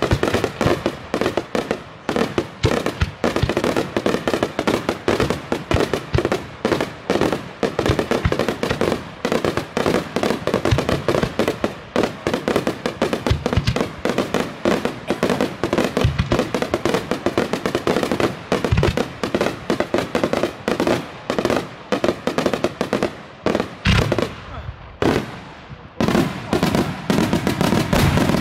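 Daytime fireworks: a dense barrage of aerial shells bursting, several bangs a second, which thins briefly about three-quarters of the way through before the bangs pick up again.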